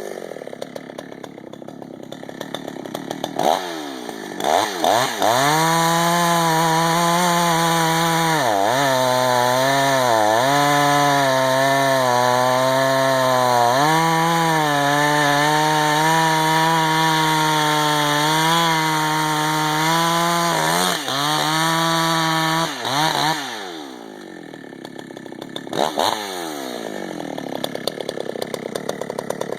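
Husqvarna 288 XP Lite two-stroke chainsaw with a 32-inch bar, idling and blipped, then held at full throttle for about seventeen seconds as it cuts wood, its pitch dipping several times as the chain takes a heavy bite. It then drops back to idle, with one more short rev near the end.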